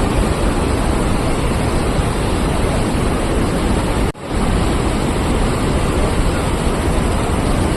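Steady, loud rushing noise, like falling water or wind on the microphone, with a brief drop at about four seconds where the recording cuts.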